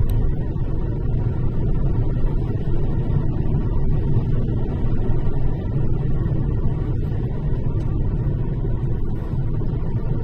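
Steady low rumble of a car driving on the road, with engine and tyre noise heard from inside the cabin.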